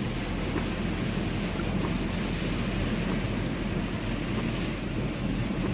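Steady rumble of a vehicle driving slowly on a wet road in the rain, engine and tyre noise heard from inside the cab.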